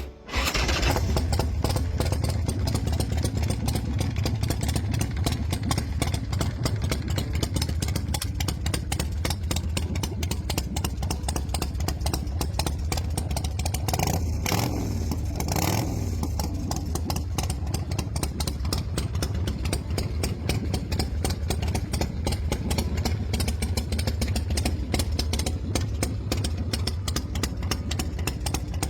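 Motorcycle V-twin engine running at idle with a fast, choppy beat, revved twice about halfway through. The engine is a 120-cubic-inch V-twin in an Ultima muscle chopper.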